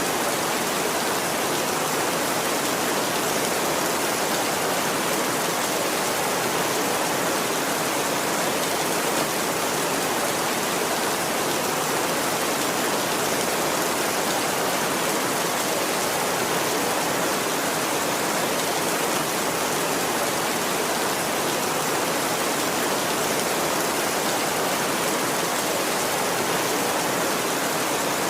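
Heavy rain falling steadily, an even hiss with no thunder or other sudden sounds.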